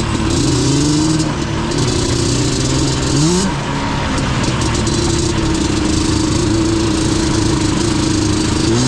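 Yamaha Banshee's twin-cylinder two-stroke engine running under way, holding a steady pitch. It revs up briefly a little past three seconds in and again near the end.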